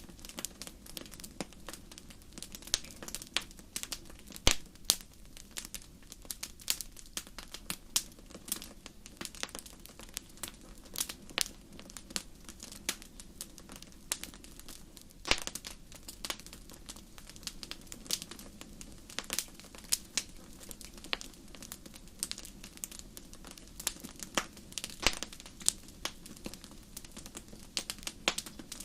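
Wood fire crackling in a fireplace: irregular sharp snaps and pops, several a second with an occasional louder one, over a steady low sound of the burning fire.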